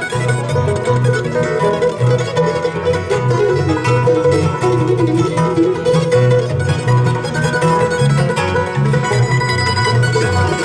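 Live band playing an instrumental break between sung verses: plucked string lead over a steady, repeating bass line.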